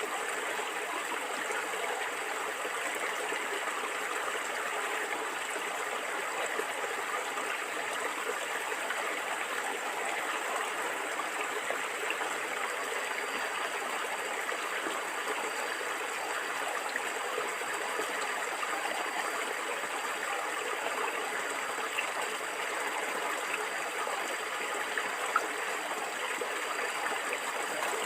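Shallow stream flowing and gurgling steadily over stones, an even rush of water without pause.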